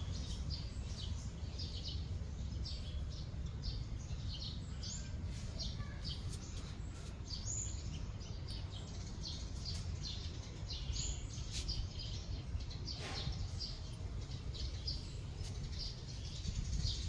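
Small birds chirping: many short, high chirps, several a second, from more than one bird, over a steady low rumble.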